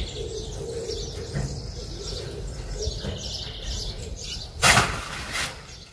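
Small birds chirping and singing over a low steady rumble. About four and a half seconds in comes a short, loud rush of noise, and a second, shorter one half a second later.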